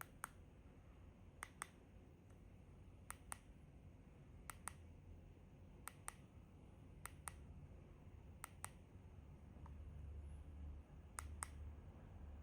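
Buttons of a handheld universal air-conditioner remote control being pressed, each press a faint sharp click and most of them heard as a press-and-release pair, repeating about every second and a half over a low hum.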